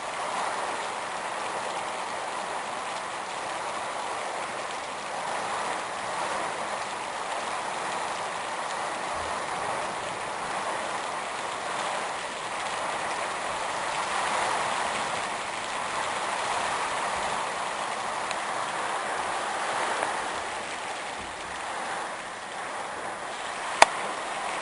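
Storm wind with heavy rain: a steady rushing noise that swells and eases in gusts. A single sharp click near the end.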